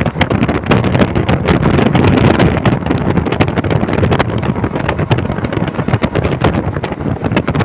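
Passenger train running, heard from on board: a loud steady rumble and rattle with many sharp clicks and knocks, and wind buffeting the microphone.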